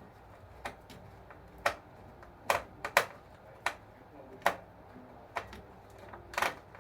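Sharp, irregular clicks and taps of small hard parts being handled while working on an RC model bulldozer, about ten in a few seconds, the loudest around the middle.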